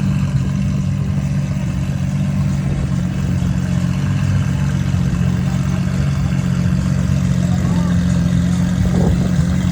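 A car engine idling steadily with a low, even hum, with people talking faintly.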